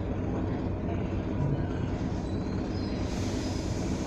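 Suburban electric commuter train running, heard from inside the carriage: a steady low noise of wheels on rails and running gear, with no break.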